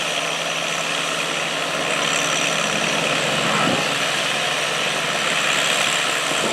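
Antique farm tractor engine running steadily under load while pulling the weighted sled.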